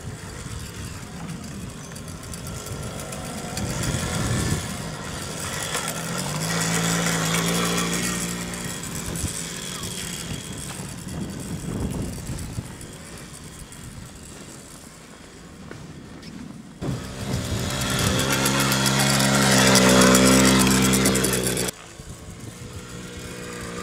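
Small petrol quad bike engine running, swelling louder twice as the machine comes near, the second time holding strongly for a few seconds before dropping off abruptly near the end.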